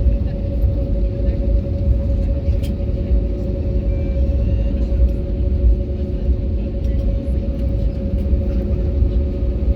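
Airbus A321neo cabin noise on the ground after landing: a steady low rumble from the engines and airframe with a constant hum on top, and a few faint clicks.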